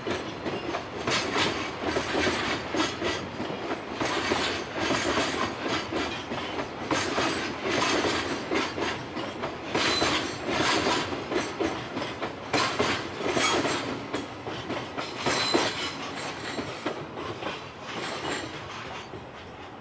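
Loaded freight container wagons rolling past, their wheels clattering over rail joints in an irregular knocking rhythm, with brief high wheel squeal on the curve a couple of times. The clatter slowly fades as the last wagons move off.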